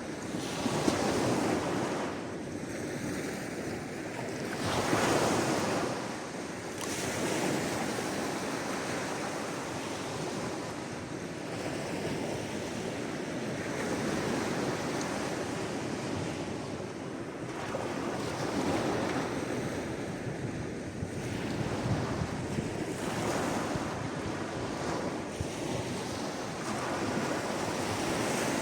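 Sea waves washing in: a continuous rush of surf that swells and eases every few seconds, with the loudest surge about five seconds in.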